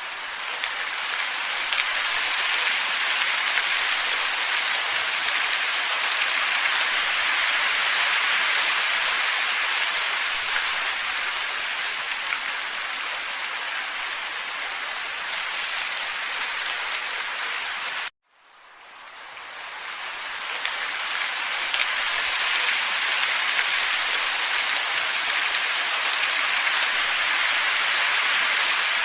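Steady, even hiss of wind from a looped ambience track. It cuts out abruptly about eighteen seconds in and fades back up over a couple of seconds.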